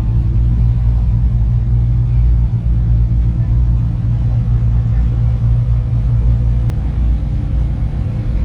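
A car engine running with a steady, deep rumble, easing slightly about seven seconds in.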